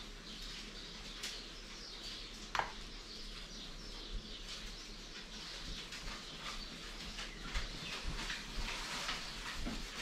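Birds chirping: many short, high chirps overlapping throughout, with one louder call sweeping quickly downward about two and a half seconds in.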